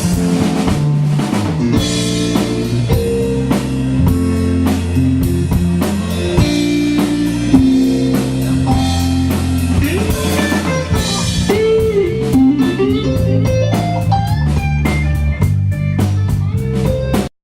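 Live band playing an instrumental passage: guitar lines over bass and drum kit in a bluesy rock style, with bending guitar notes about two-thirds of the way through. The sound cuts off suddenly just before the end.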